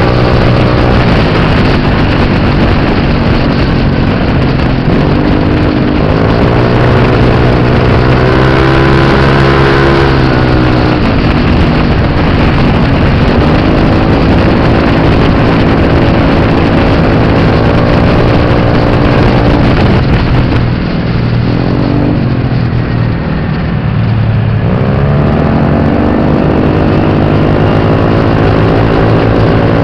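Scooter engine running hard under way, its pitch climbing and settling several times as it accelerates; a little past the middle it eases off and drops in pitch, then picks up again.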